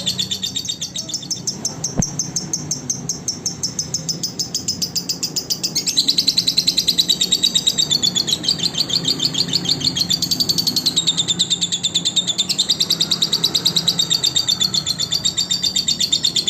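Lovebird singing a long, fast, unbroken chattering trill of high chirps, growing louder about six seconds in.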